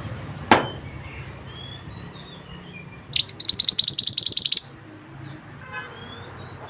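Pied bushchat (mantenan) singing a loud, tight rolling trill of about a dozen high notes a second, lasting about a second and a half. A sharp click comes about half a second in, and fainter chirps of other birds sound in the background.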